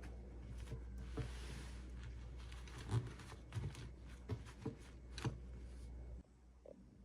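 Hands handling small plastic toy pieces and packaging: a brief rustle about a second in, then a series of light clicks and taps.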